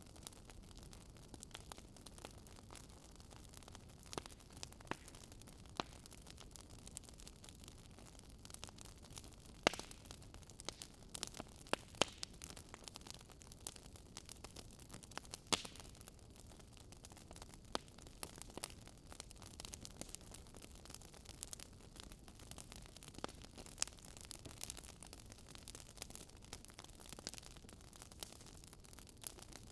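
Wood fire in a fireplace crackling: irregular sharp pops and snaps over a soft steady hiss, thickest from about a third of the way in to halfway.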